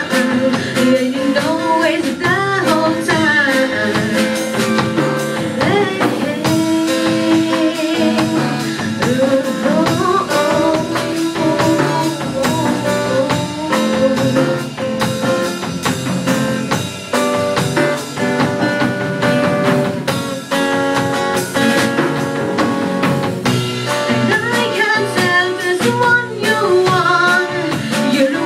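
Band music with a sung melody over drums and guitar, the voice gliding and wavering without clear words.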